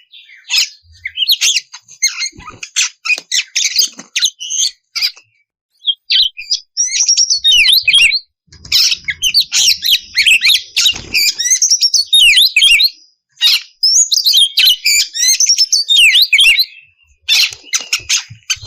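Oriental magpie-robin (kacer) singing at full voice, a fast, varied run of high whistled phrases mixed with harsh, rasping clicks. It sings in long bursts with short breaks, about five to six seconds in and again near the end.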